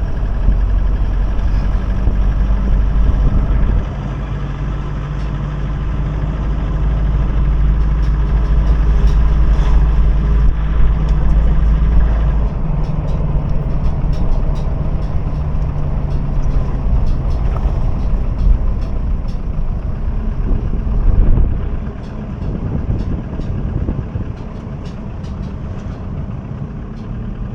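A motor vehicle's engine runs with a heavy, steady low rumble. The sound shifts about halfway through and eases off briefly about three-quarters of the way in.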